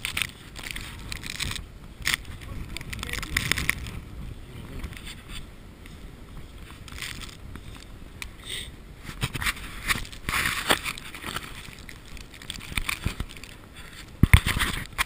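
Blizzard wind buffeting the microphone, a steady low rumble, with irregular short clicks and crunches throughout, louder near the end.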